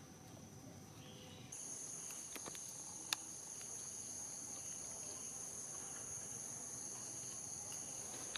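A steady, high-pitched insect chorus that grows louder about one and a half seconds in, with a single sharp click about three seconds in.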